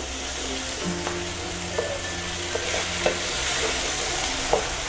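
Onion-tomato masala sizzling in oil in a nonstick pan while a spatula stirs and scrapes through it, with a few soft taps. The masala has been fried until the oil separates and rises to the top.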